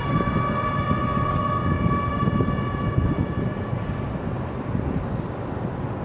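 A single long signal note at a steady pitch, held for about four and a half seconds and then fading out, over a steady low rumble.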